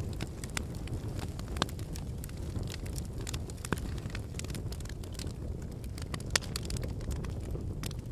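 Wood fire burning: a steady low rush of flames under frequent sharp crackles and pops from the burning logs, with a couple of louder pops, one about a second and a half in and one past six seconds.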